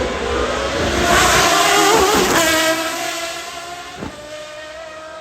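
Supercar engine accelerating hard past, its pitch climbing and loudest about one to two seconds in, then fading to a steady, lower drone as the car moves away.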